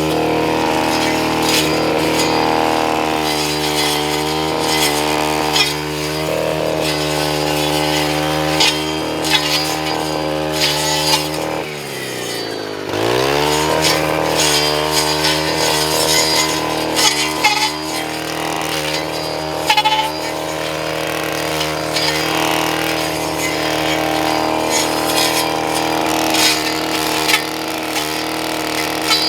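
Gas string trimmer run without string, its small engine at high speed while cutting brush, with many sharp ticks as it strikes stems. About twelve seconds in the throttle is let off, the engine drops almost to idle, then revs back up to full speed.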